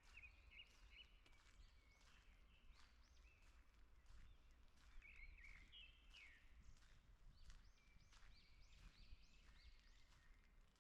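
Faint forest birdsong: several birds giving short, repeated chirps throughout. Footsteps on a forest path come at a steady walking pace beneath them, over a low rumble.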